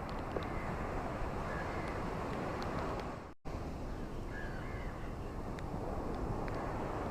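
Steady wash of ocean waves on a shore, with a few faint bird calls. The sound cuts out completely for a split second about three and a half seconds in, then the surf resumes.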